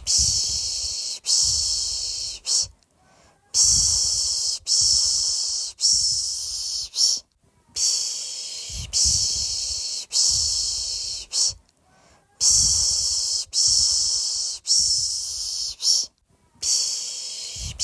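A person's voice making a lulling 'shh' sound for a baby, repeated rhythmically. Each shush lasts about a second and fades, and they come in runs of three or four with a short pause for breath between runs.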